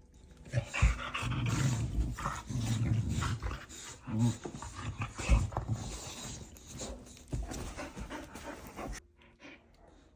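A dog panting and moving about close by, with several dull thumps mixed in; the sound cuts off abruptly about nine seconds in.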